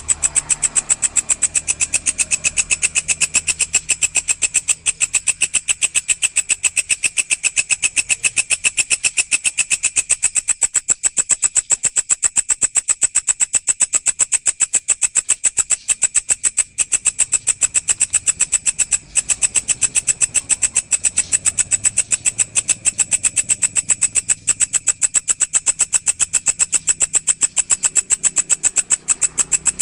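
Walang (grasshopper) calling: a steady, high-pitched, rapidly pulsed chirring that keeps an even rhythm, with a couple of very brief breaks.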